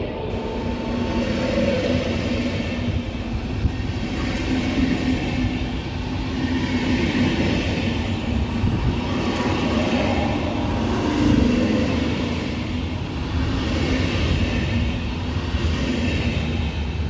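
FlixTrain passenger coaches rolling past along the platform: a steady rumble of wheels on rail, continuing as the last coach goes by.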